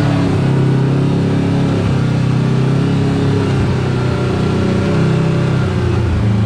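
Side-by-side UTV engine running at low, fairly steady revs, its pitch shifting only slightly.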